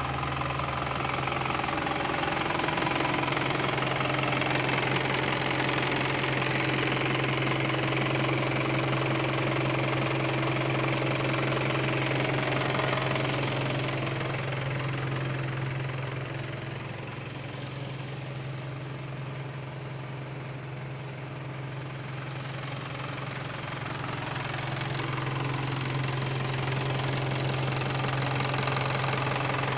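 Isuzu Elf dump truck's 4HF1 four-cylinder diesel engine running with a steady low note. It grows quieter for several seconds in the middle, then louder again near the end.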